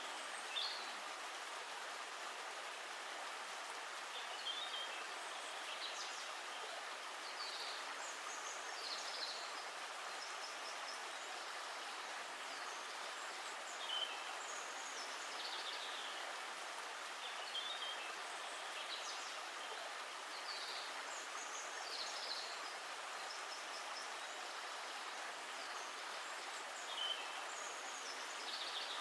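Steady hiss of running water, with short bird chirps scattered through it every second or two.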